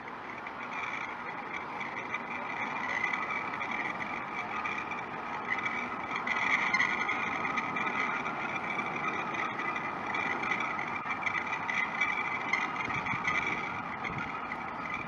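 Airbus A350-1000 jet airliner's Rolls-Royce Trent XWB-97 engines passing: a steady whine over a rushing noise. It swells to its loudest around the middle and eases off toward the end.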